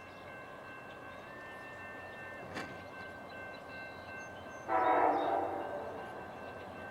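A train horn sounds one short blast about two-thirds of the way in, over the steady noise of a train.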